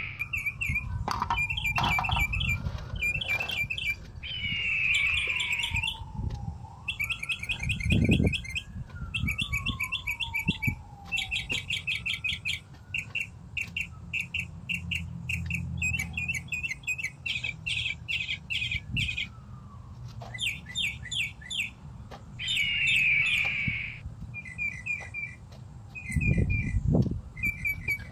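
Small birds chirping in quick repeated trills, with a few low thuds.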